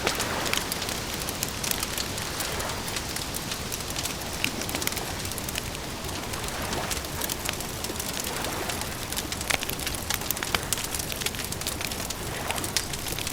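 Campfire crackling: many irregular sharp pops and snaps over a steady hiss like light rain.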